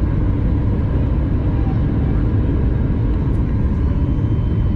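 Steady cabin noise inside a Boeing 737 MAX 8-200 in flight: a low, even rumble of its CFM LEAP-1B engines and rushing air, with a few faint steady tones above it.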